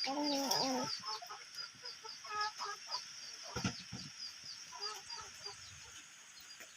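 Chickens clucking, with a steady run of short, high, falling chirps several times a second and a few scattered louder calls.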